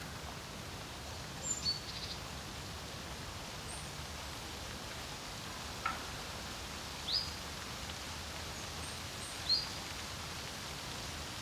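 Steady rush of wind at a lake shore, with a few short, high bird chirps scattered through: two quick ones about a second and a half in, then single calls near the middle and near the end.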